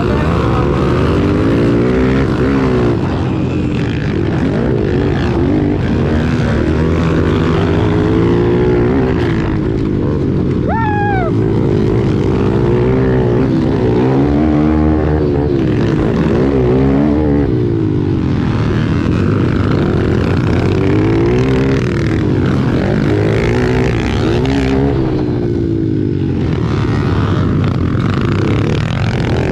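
Pit bike engines racing, revving up and backing off again and again through the corners of a dirt track. About eleven seconds in there is a brief rising high tone.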